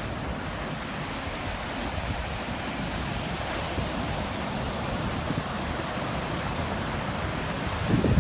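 Surf from typhoon swell breaking on a beach, a steady rushing wash of waves, with wind buffeting the microphone. A louder low rumble comes right at the end.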